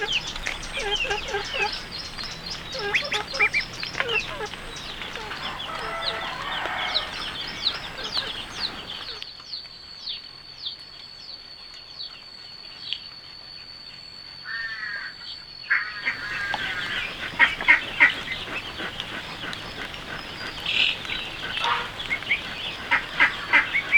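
Farm fowl calling over and over in short calls. In the middle the calls thin out for several seconds and a thin, steady high tone holds, then the calling picks up again, loudest a few seconds later.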